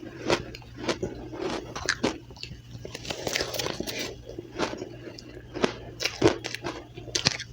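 Soft, powdery ice bitten and chewed close to the microphone: quick, irregular crunches, several close together.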